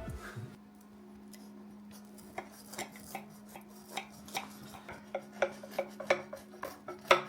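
Dishes and cutlery clinking: a run of irregular short knocks and clinks, the loudest near the end, over a steady low hum.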